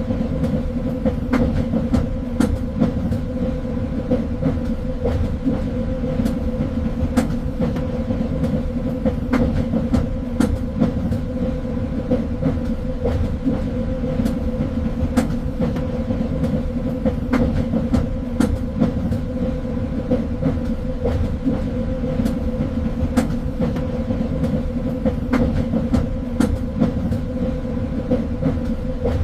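Train running along the track: a steady low rumble and hum, with frequent irregular clicks and knocks of the wheels over the rails.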